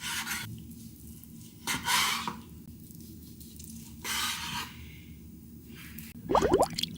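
Three short scraping sounds about two seconds apart, then a brief swooping squeak with a low thud near the end.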